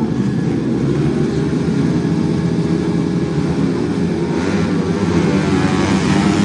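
Stock underbone motorcycle engines running hard during a grasstrack race, a steady loud engine din.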